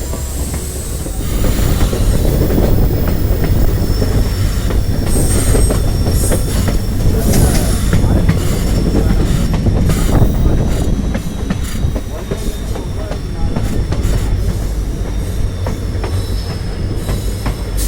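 Train running with a steady rumble, its wheels squealing in thin, drawn-out high tones, with short clicks over the rails.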